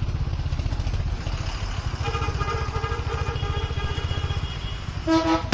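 Royal Enfield Hunter 350's single-cylinder engine running with a steady low thump. Music comes in just before the end.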